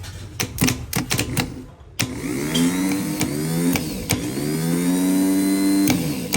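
Rebuilt car starter motor being run: a few sharp clicks, then from about two seconds in it spins with an electric whine that rises and falls in pitch, in two runs.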